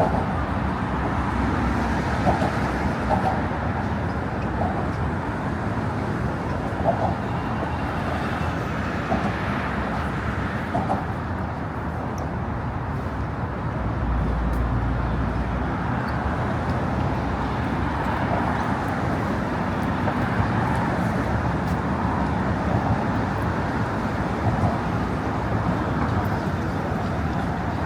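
Steady road traffic from cars on the bridge, with a deeper rumble for a couple of seconds about halfway through.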